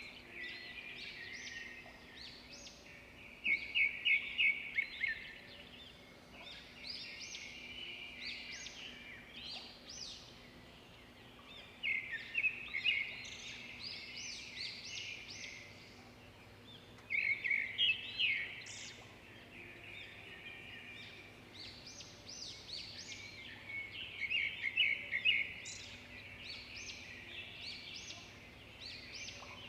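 Songbirds chirping and twittering, with louder runs of rapid chirps every few seconds, over a faint steady low hum.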